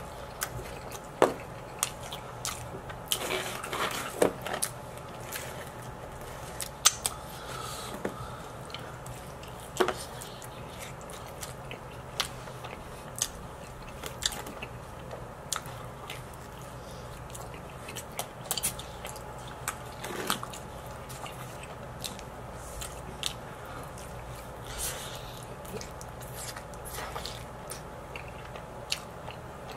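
Close-miked chewing and biting of pizza: wet mouth clicks and smacks with scattered sharp crackles of crust, over a low steady hum.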